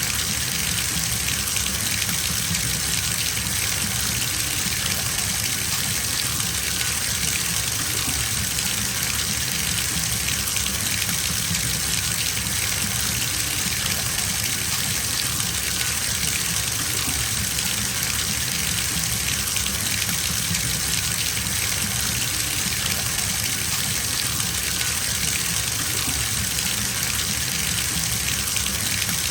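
Bathtub filling from its tap: water gushing steadily into the tub with an even, unbroken rush.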